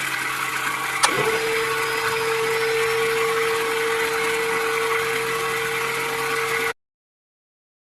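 Small electric motor whirring steadily; after a click about a second in, a steady whine joins it. The sound cuts off abruptly near the end.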